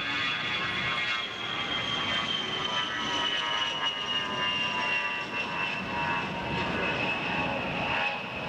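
Aircraft engine running with a steady high whine over a noisy rush, the whine falling slowly in pitch.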